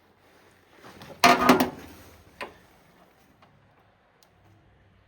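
A brief clattering rattle about a second in, followed by a single knock.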